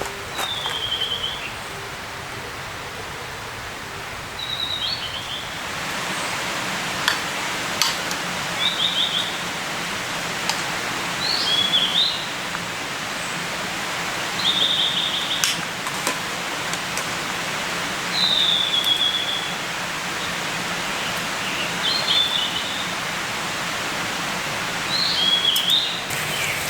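A songbird singing short high phrases, about eight in all, one every three to four seconds, over a steady background hiss.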